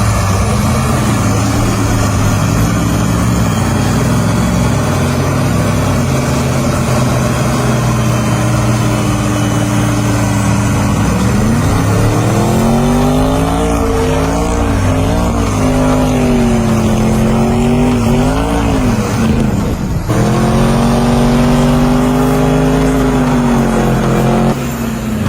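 Motor vehicle engine running steadily, then revving up and down repeatedly from about eleven seconds in. It breaks off briefly near the two-thirds mark, then holds a higher, steadier pitch.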